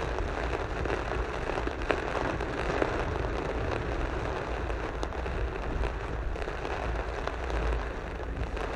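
Rain beating on a car and its tyres running through standing floodwater, heard from inside the cabin over a steady low road rumble.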